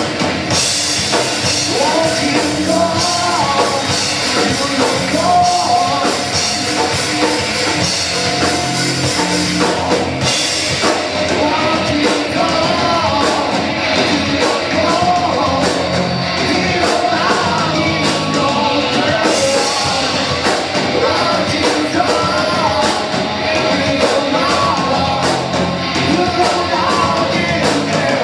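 Live rock band playing loud, with drums, guitars and a singing voice.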